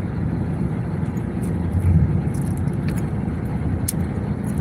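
Steady low rumble with a hiss over it and a few faint clicks, swelling briefly about halfway through.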